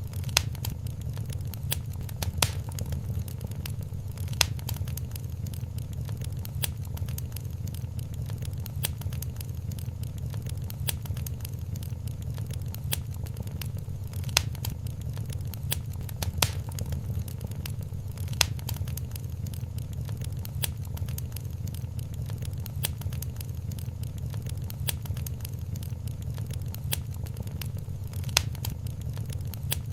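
Wood fire crackling in a fireplace: a steady low rumble of flame with frequent sharp pops and snaps, a handful of them louder than the rest.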